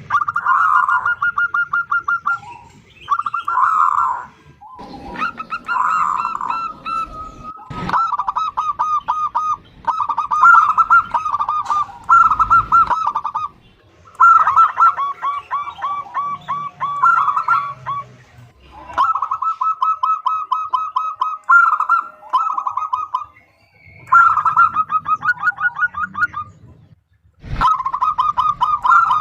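Zebra dove (perkutut) female calling to a male: rapid staccato trains of short coos, each run lasting a second or a few, repeated with short pauses and sometimes overlapping.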